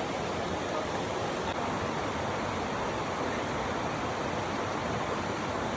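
River water rushing and flowing steadily, an even, unbroken noise.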